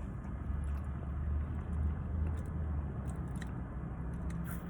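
Steady low hum of an idling car, with faint small clicks of someone chewing food.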